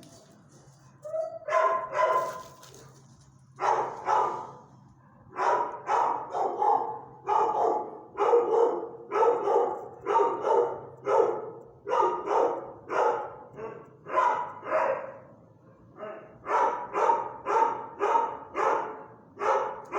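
A dog barking over and over: a few barks at first, then a steady run of about two barks a second with one short break.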